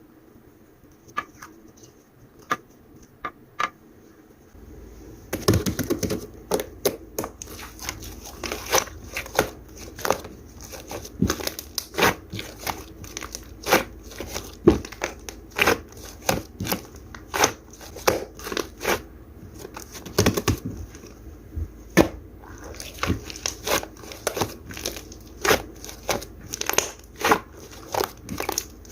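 Irregular sharp crinkling and crackling clicks, a few faint ones at first, then many louder ones packed closely from about five seconds in.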